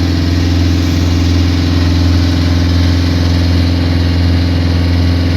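Engine of a small hired motorboat running steadily, heard from on board as an even low hum.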